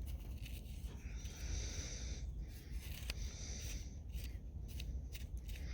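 Rubbing and scraping as caked grime is cleaned away from the top end of a tractor engine with the rocker cover off, with a longer scraping stroke about a second in and a few light clicks.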